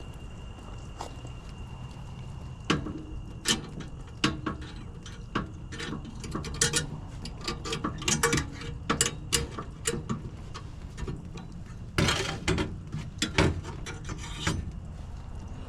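Irregular clicks, taps and clatter of hand tools and small metal furnace parts being handled, over a steady low hum. This is a gas furnace's flame sensor being taken out for inspection.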